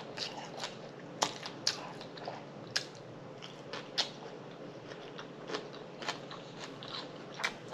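Close-miked chewing of a collard-green wrap: irregular wet mouth smacks and crunchy clicks, about a dozen, unevenly spaced.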